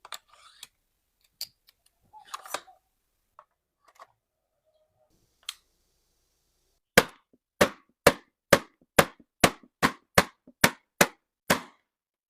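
A run of about eleven sharp, evenly loud impacts from woodworking tool work, two to three a second, after a few seconds of scattered light taps and clicks.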